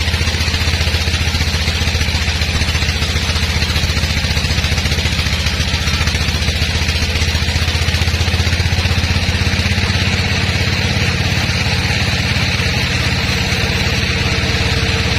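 Sawmill engine running steadily, with a steady higher-pitched hiss above the low engine hum.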